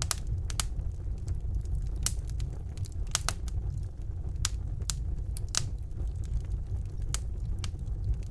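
Wood fire burning in a fireplace: sharp, irregular crackles and pops over a low steady rumble of the flames.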